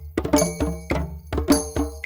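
Drums played in a group session, a steady rhythm of sharp strikes, several a second, each ringing on briefly.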